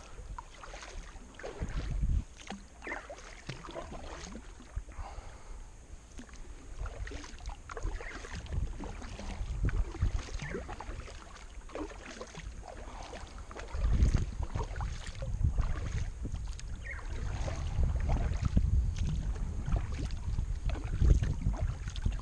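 Kayak paddling: irregular splashes and drips of the paddle blades in the water. Low wind rumble on the microphone grows louder about halfway through.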